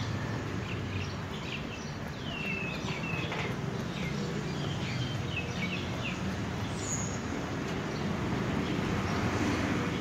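Small birds chirping in short, quick calls, most of them in the first six seconds, with one higher whistle about seven seconds in, over a steady low rumble.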